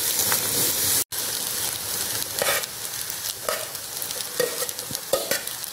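Egg masala sizzling in a pan on a low flame as cooked rice is tipped in on top, with a few soft knocks and scrapes. The sound cuts out for a moment about a second in.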